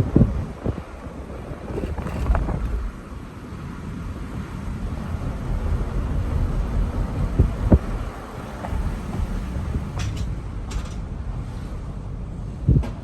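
Wind buffeting the microphone: an uneven low rumble that rises and falls, with a few brief knocks.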